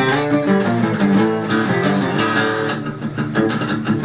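Guitar music with strummed chords.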